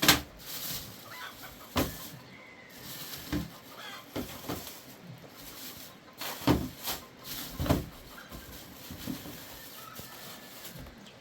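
A series of sharp, irregularly spaced knocks, about seven in all, the loudest right at the start and around the middle, with a few faint short high calls between them.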